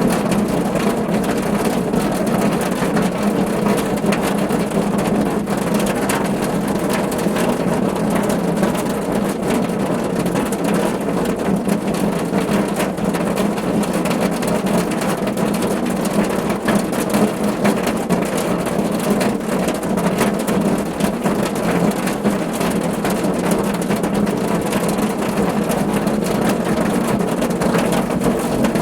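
Steady heavy rain drumming on a car's roof and body, a dense patter of countless drops with a deep, hollow low end.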